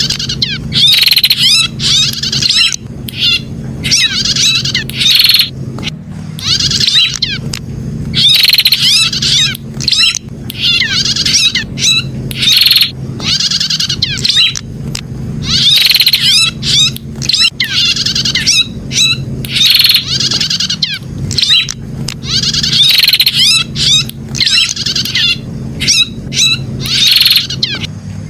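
Prenjak (prinia) calling: loud, rapid high-pitched chirping phrases repeated one after another with barely a pause, over a steady low hum.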